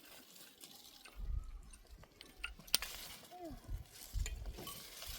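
A short bleat from the herd of goats and sheep about three and a half seconds in, with a sharp click a little before it and intermittent low rumbling.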